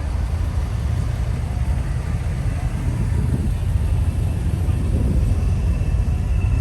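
Car engine running at low speed close by, a steady low rumble.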